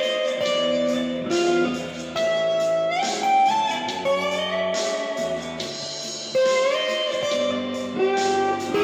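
Electric slide guitar playing a melody: notes slide up into pitch and are held with vibrato, over lower sustained notes underneath.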